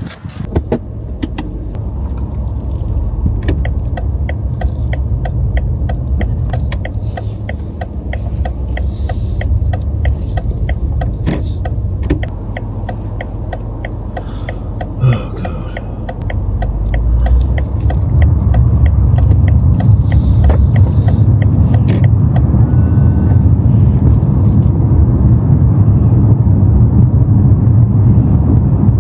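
BMW M5 engine starting with a sudden rise in sound, then running with a low rumble. Rapid, even ticking sounds over it for most of the first twenty seconds. The engine gets louder and steadier about two-thirds of the way through as the car drives off.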